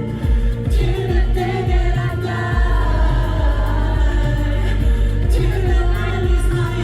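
A pop song performed live: a male voice singing over a backing track with heavy, pulsing bass.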